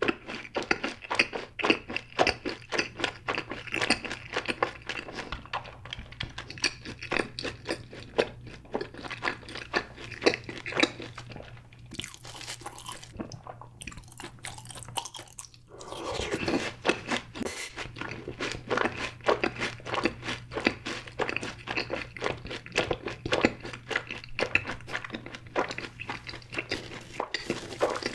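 Close-up crunching and chewing of fried cheese balls: sharp crackles of the fried crust in quick succession, with a quieter pause in the middle before the chewing picks up again.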